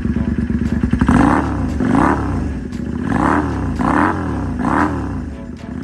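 Kawasaki Eliminator 250V's V-twin engine, breathing through a newly fitted squash-type aftermarket muffler, idles and then is blipped about five times, the engine note rising and falling with each blip.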